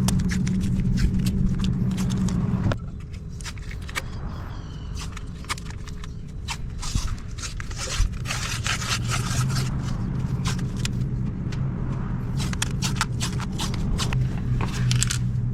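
Masking tape being pulled off the roll and torn in repeated short rasping strokes, as brake parts are masked for painting. A steady low hum runs under the first few seconds and cuts off suddenly.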